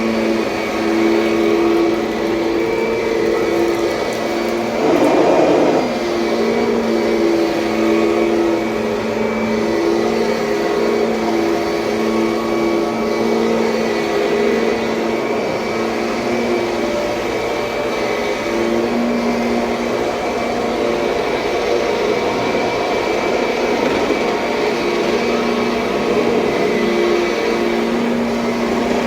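A 2007 Kirby Sentria upright vacuum cleaner running steadily, its motor hum wavering in and out, with a brief louder rush about five seconds in.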